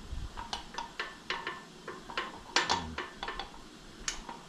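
Irregular light metal-on-metal clinks and taps, about a dozen, loudest in a quick cluster around the middle, as the axle spacers are worked into place while refitting a Harley Sportster rear wheel.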